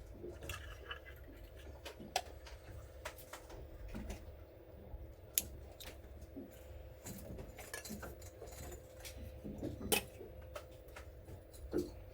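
Scattered light clicks and clinks of small hard objects being handled, a few of them sharper, over a steady hum and low rumble.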